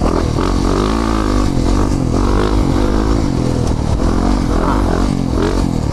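Yamaha 450 dirt bike's single-cylinder four-stroke engine running as it is ridden along a trail, its pitch rising and falling as the throttle is worked.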